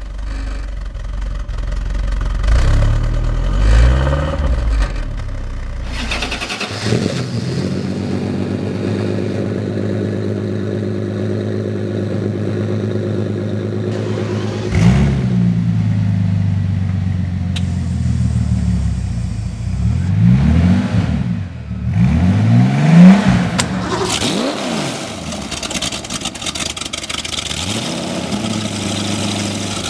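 High-performance car engines being started and revved in several short clips in a row: blips of the throttle that rise and fall in pitch, with a stretch of steady idling in the middle.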